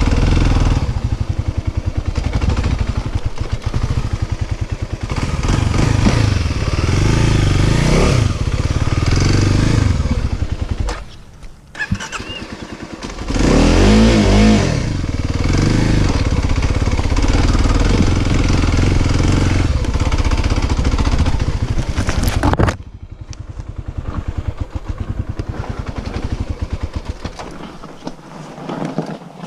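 Dirt bike engine running hard on a trail ride, revving up and easing off, with a brief let-off about 11 seconds in. About 23 seconds in it drops suddenly to a much quieter running sound.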